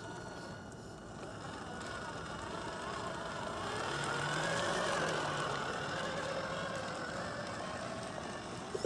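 Radio-controlled model truck driving, its motor and gears whining; the sound swells to its loudest about halfway through and then eases off.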